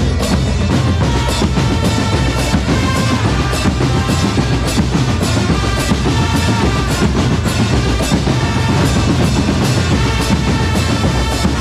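Drum corps playing a fast, steady beat on snare and bass drums, with a melody of short held notes played over it.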